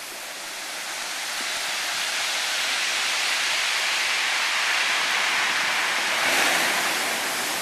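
Surf washing over lava where it pours into the sea: a rushing hiss that swells over several seconds, peaks near the end, then eases off.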